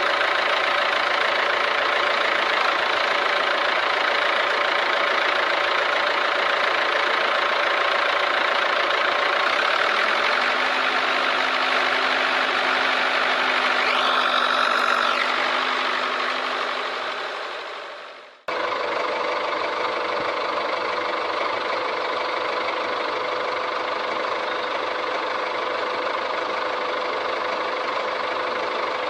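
Steady running of a small motor. It fades out about two-thirds of the way through and comes straight back at a cut.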